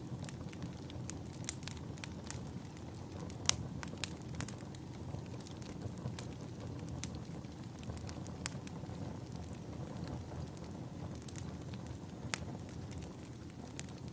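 Wood fire burning: a steady low rumble with irregular sharp crackles and pops, a few each second, one louder pop about three and a half seconds in.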